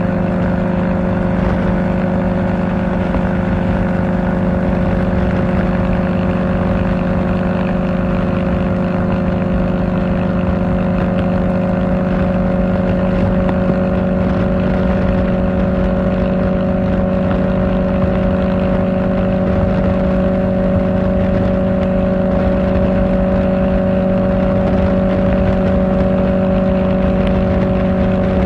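Kawasaki Ninja ZX-4R's 399 cc inline-four with an Akrapovic exhaust, cruising at steady revs: a steady, even drone over a low rush of noise, the pitch creeping up slightly near the end.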